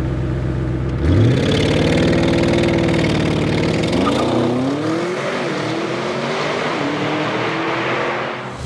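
2021 Audi RS7's 4.0-litre twin-turbo V8 idling, then revving hard as the car pulls away about a second in, its pitch climbing steeply. Around four seconds in the pitch drops briefly and climbs again, then the engine note fades as the car drives off.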